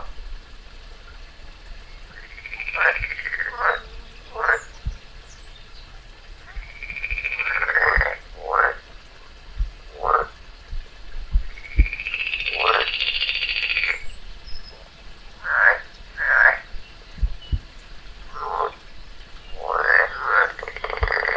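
A frog crying out over and over while a garter snake swallows it: about a dozen loud calls with gaps between them, some drawn out for about a second and falling in pitch, others short. These are the distress cries of a frog held in the snake's jaws.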